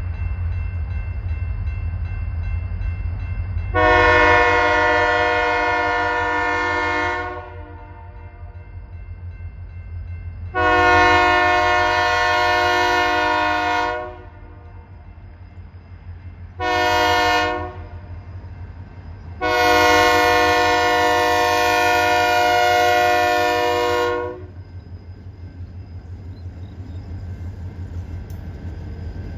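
Diesel locomotive air horn blowing the grade-crossing signal: two long blasts, one short, then one long, a chord of several tones. A steady low rumble runs underneath.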